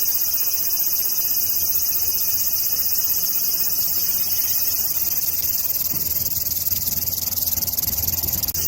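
Large brown cicada (Graptopsaltria nigrofuscata) singing: a steady, high, sizzling buzz that does not let up.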